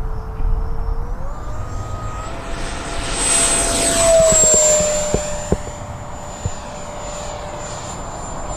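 Electric ducted fan of a Freewing A-4 Skyhawk RC jet, an 80mm fan on an in-runner motor, whining at power. The pitch steps up twice as the throttle is opened. The jet passes close, loudest about four seconds in with a rushing sound, then the whine drops slightly in pitch and holds steady.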